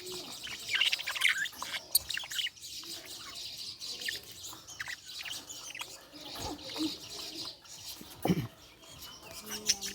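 Budgerigar chirping and warbling: a busy, continuous run of short high chirps. A brief lower sound stands out about eight seconds in.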